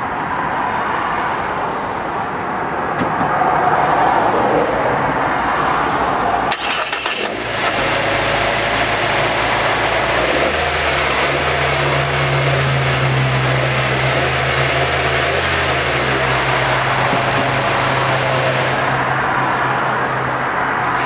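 Nissan Juke's four-cylinder turbo engine started with a short burst about seven seconds in, then idling steadily, over a background of traffic noise.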